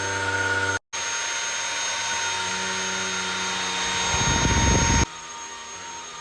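Vacuum cleaner motor running with a steady whine, broken by a split-second gap under a second in. A low rumble builds near the end, then the motor sound drops away suddenly about five seconds in, leaving a faint hum.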